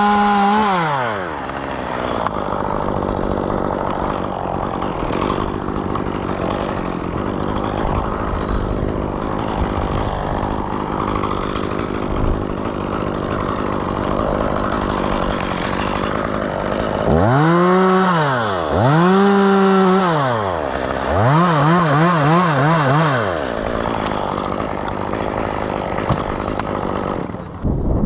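Two-stroke chainsaw revving up to full throttle and dropping back: once at the start, twice in quick succession about two thirds of the way in, then again with the pitch wavering quickly up and down, running at a lower, steady speed in between.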